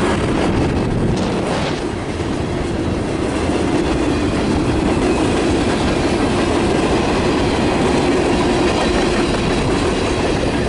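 Freight train cars rolling past steadily, their wheels clicking over the rail joints with a continuous rumble.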